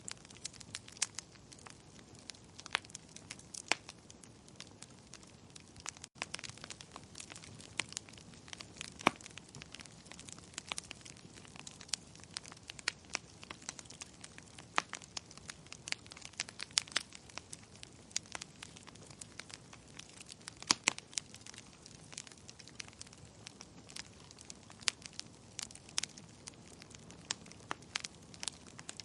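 Wood fire crackling: irregular sharp pops and snaps, some much louder than others, over a low steady hiss, with a momentary gap about six seconds in.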